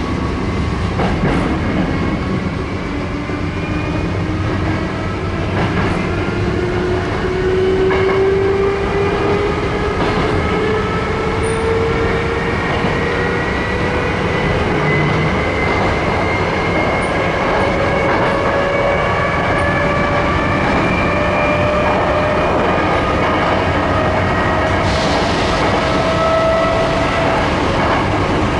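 San'yo 3200 series electric train running, heard from aboard: its traction motor and gear whine rise slowly and steadily in pitch as the train picks up speed, over the constant rumble of the wheels on the rails, with a few faint clicks from rail joints.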